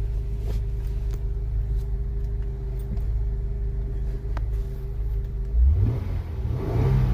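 Honda Accord 3.0-litre V6 idling steadily, then revved briefly about five and a half seconds in. It runs smoothly, with its knock sensor and wiring harness newly replaced.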